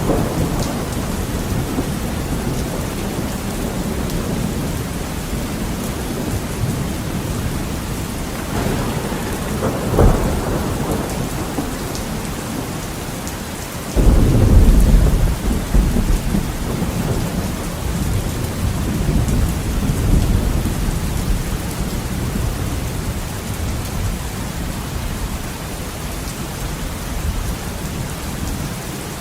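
Heavy rain beating steadily on a window, with thunder: a sharp crack about ten seconds in, then a sudden loud clap about halfway through that rumbles on for several seconds and rolls again a little later.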